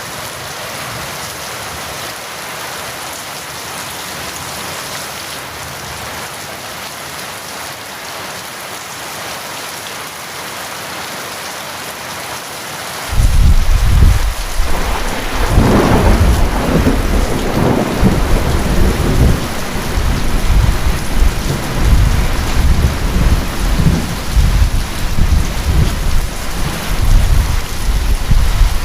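Steady rain, then about halfway through a loud rumble of thunder breaks in suddenly and keeps rolling unevenly over the rain to the end.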